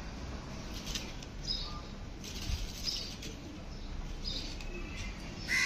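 Faint outdoor background with small high bird chirps every second or so, then near the end one loud call from a bird, the first of a repeated series.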